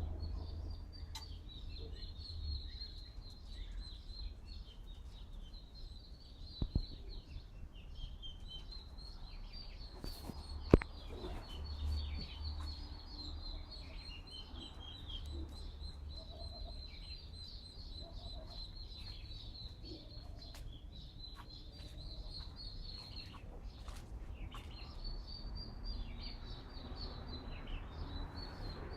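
Small birds chirping and twittering continuously in quick high notes, over a low steady rumble. A single sharp click comes about eleven seconds in.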